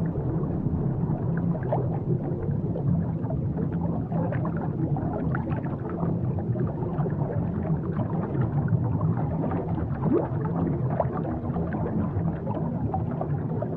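Underwater ambience picked up by a camera in its housing: a steady muffled water rush with many small scattered clicks and crackles.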